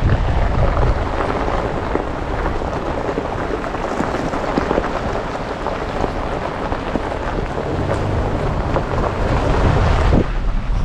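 Steady noise of an off-road vehicle driving a wet trail in the rain, with a low rumble under a dense patter of small ticks throughout.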